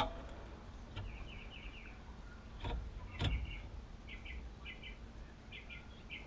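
Small birds chirping faintly in short quick runs of high notes, with a few soft knocks and clicks of handling scattered through, the loudest just after three seconds in.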